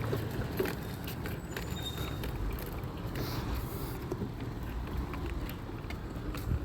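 Steady low rumble of a running motor vehicle, with a few faint clicks.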